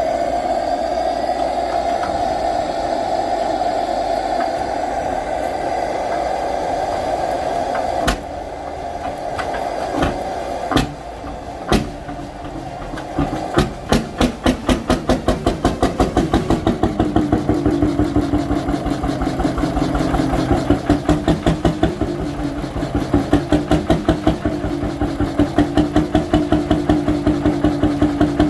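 An old stationary engine starting: after a steady rushing hum, it fires a few single, widely spaced strokes, then catches and runs with an even beat that speeds up to several firings a second.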